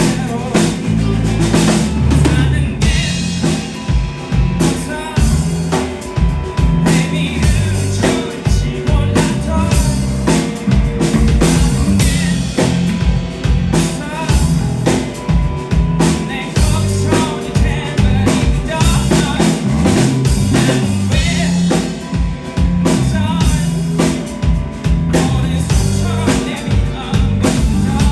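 A rock band playing, with a busy drum kit driving the beat: kick and snare hits with rimshots, over bass and guitar, and some singing.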